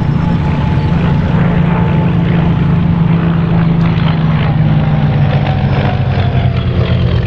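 Piston-engined Second World War fighter aircraft flying past with a steady propeller-engine drone, the pitch of the engine note falling slightly in the later part.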